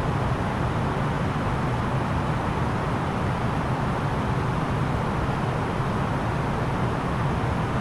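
Steady cabin noise of an Airbus A330-900neo airliner in descent: an even rush of airflow over the fuselage with a low hum from its Rolls-Royce Trent 7000 engines.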